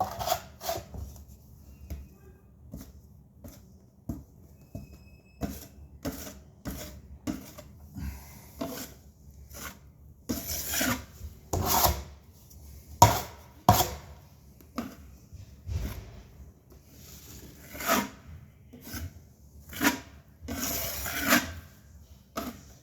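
Metal putty knife scraping joint compound across a drywall patch in a run of irregular strokes, mostly short, with a few longer drawn-out swipes, as the coat is smoothed flat.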